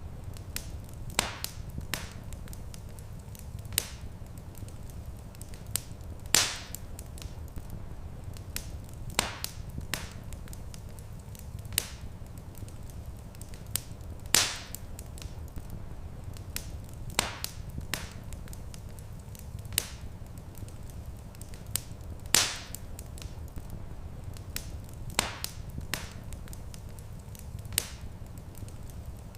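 Wood fire crackling in a stone fireplace: sharp snaps and pops every second or so, with a few louder pops, over a steady low rumble.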